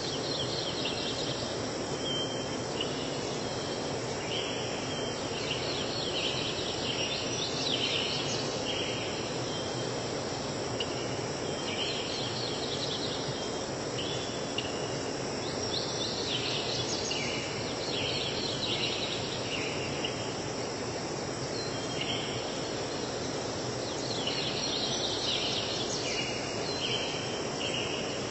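Outdoor nature ambience: a steady high insect drone and clusters of short, high, repeated calls every few seconds over a constant low rushing background.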